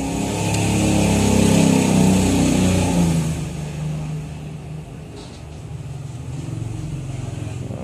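A motor vehicle engine passing by, loudest around two seconds in and then fading away.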